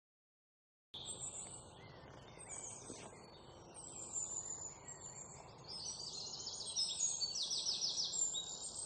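Forest ambience with many birds chirping and trilling over a steady low background noise. It starts about a second in and gets louder and busier in the second half.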